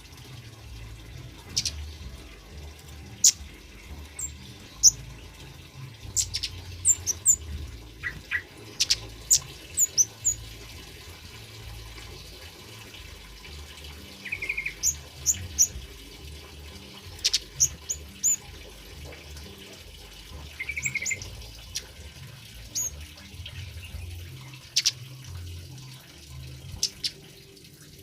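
Kemade bird calling: short, sharp, high chirps repeated at irregular intervals, with a couple of brief trills, over a steady low background rumble.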